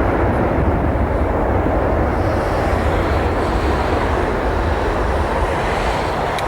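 Boeing 737-800's CFM56 jet engines running as the airliner passes on landing: a loud, steady rumble with a hiss on top that eases off slightly near the end.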